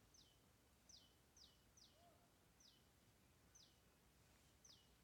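Near silence with about seven faint, high chirps spread through it, each sliding down in pitch: a small bird calling.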